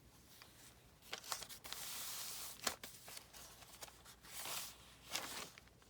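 Paper being handled: soft rustling and sliding of journal pages and paper pieces, in several short stretches, with a couple of light ticks.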